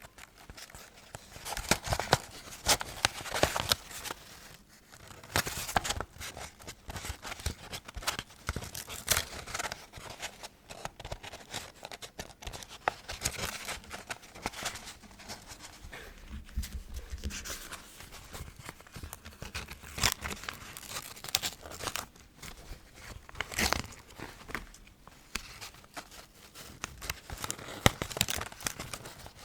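Quill pen nib scratching across paper in short, irregular strokes.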